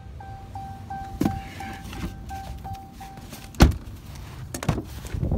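A Ram 3500 pickup's cab warning chime beeping evenly, about two and a half times a second, until it stops about three seconds in. Just after it stops comes a single loud thump, then a few lighter knocks near the end.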